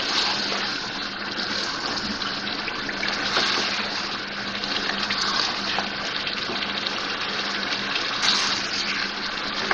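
Mutton, potatoes and masala sizzling in oil and a little water in a non-stick wok as they are stirred with a spatula: a steady frying hiss with a few light scrapes of the spatula. This is the bhuna stage, frying the masala until the oil separates.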